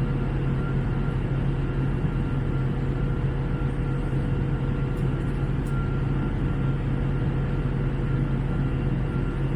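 Steady cabin noise inside an Airbus A321neo in flight: the constant drone of its engines and the air rushing past the fuselage, with a strong low hum and faint steady whining tones above it.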